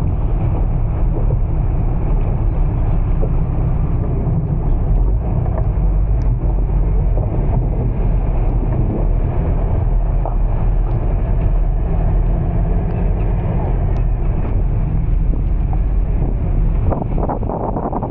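Steady low rumble of a vehicle moving through heavy rain, with wind noise on the microphone and a few faint ticks.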